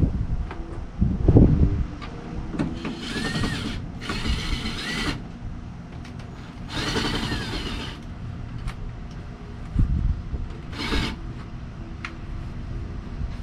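Power drill run in three short bursts of about a second each, its motor whine rising and falling with the trigger, with a shorter burst near the end. Low knocks and clunks come between the bursts.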